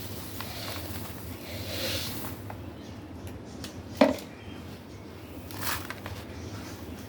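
Soft black stone crumbling as it is crushed, with one sharp crack about four seconds in, the loudest sound, and another brief crumble near the end.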